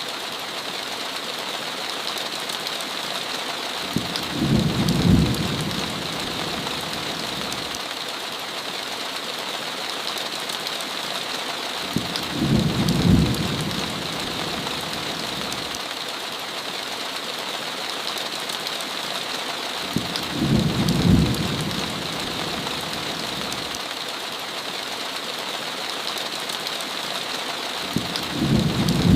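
Steady heavy rain falling on a window, with a low thunder rumble about every eight seconds, four rumbles in all, each lasting about two seconds and louder than the rain.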